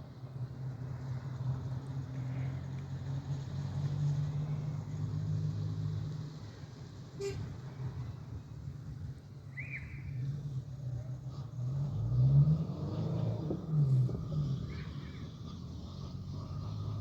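An engine running steadily, its pitch rising and falling briefly about twelve to fourteen seconds in, with a single sharp click about seven seconds in.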